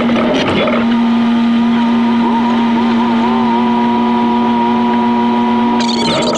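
Jeep engine and drivetrain running on a rock trail, with the audio sped up six times by the time-lapse so it comes out as a steady drone with wavering overtones. A rush of noise comes in near the end.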